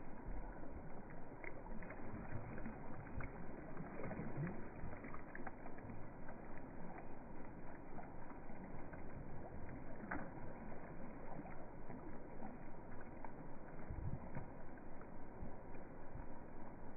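Slowed-down sound of water, dull and muffled, pulsing steadily about four or five times a second.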